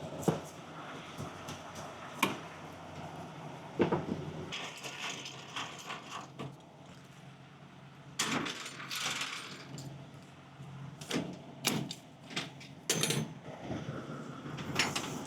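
Tractor-trailer being unhooked: scattered metal clunks and knocks, with two short bursts of hissing, over a steady low hum.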